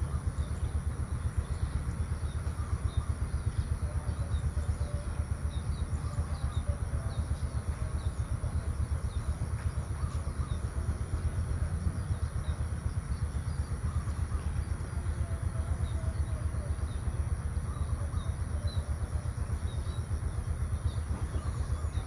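Outdoor countryside ambience: a steady, fluttering low rumble under a constant high hiss, with faint bird chirps scattered throughout.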